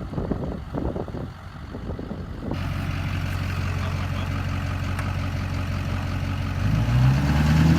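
Straight-piped 6.6 L LB7 Duramax V8 turbo diesel. It idles steadily after about two and a half seconds of uneven rushing noise, then is revved briefly near the end, rising and falling in pitch.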